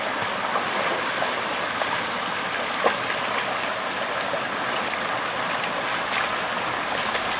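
Mountain stream water running steadily, with a brief sharp splash or knock about three seconds in.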